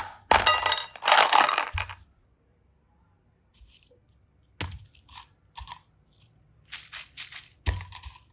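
Slime and clay being squeezed and pulled apart, giving crackling, tearing sounds: three loud bursts in the first two seconds, then a few seconds of quiet, then a scattering of softer clicks and pops.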